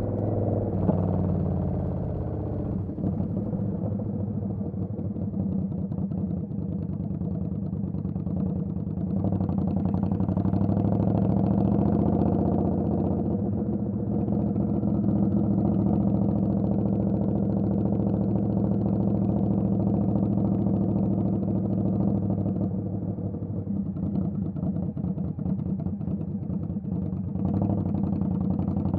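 Indian Scout Bobber's V-twin engine running while the bike is ridden, its pitch dropping just after the start and then holding fairly steady with small swells in throttle.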